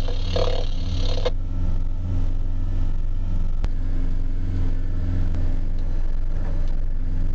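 Small boat's engine running steadily under way: a constant low drone, with a brief hiss in the first second.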